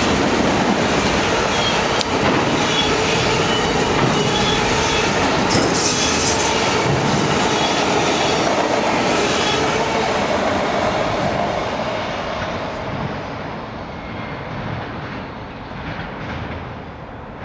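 Freight train of autorack cars rolling past, with steady wheel-on-rail noise that fades away over the last few seconds as the end of the train goes by.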